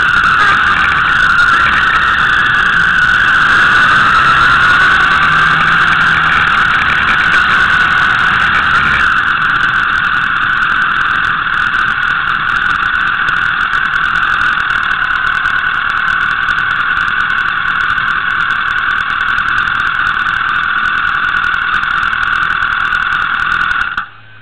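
Motorcycle engine running as the bike rides along, a loud steady drone with a brief rise and fall in pitch a few seconds in. The deep low end drops away about nine seconds in, and the sound cuts off suddenly at the very end.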